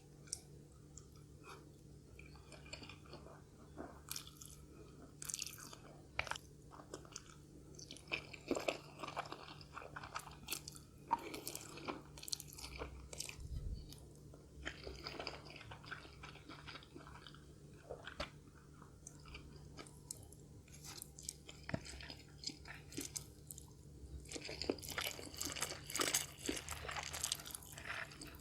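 A person chewing and biting crunchy food close to the microphone, in irregular clusters of crackly crunching, over a faint steady hum.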